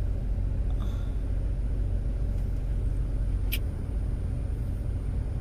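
Road noise inside a moving car's cabin: a steady low rumble of tyres and engine, with one short click about three and a half seconds in.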